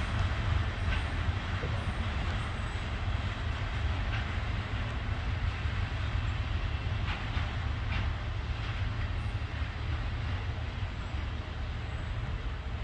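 Loaded freight cars of a trash train rolling away along the track: a steady rumble of wheels on rail with a few faint clicks over rail joints, slowly fading.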